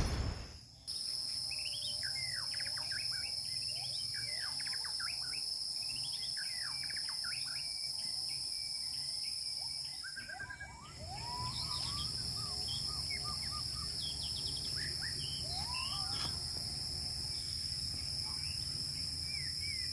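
Wild birds chirping and calling over a steady, high insect drone, as of cicadas or crickets. The insect drone drops away briefly about halfway through.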